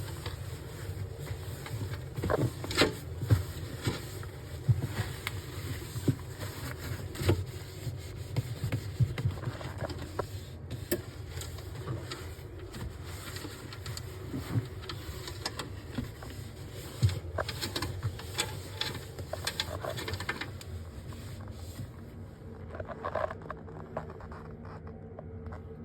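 Irregular knocks, clicks and light clatter of things being handled during cleaning, over a steady low hum.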